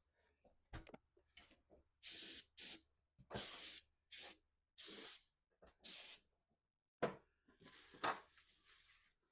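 An aerosol spray can sprayed in about six short hissing bursts, followed by a sharp knock about seven seconds in and another lighter hit about a second later.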